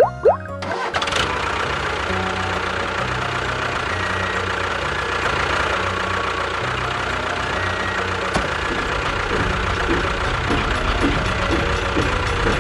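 Engine running steadily at an even pitch, starting about half a second in as a short bit of music with rising slides ends.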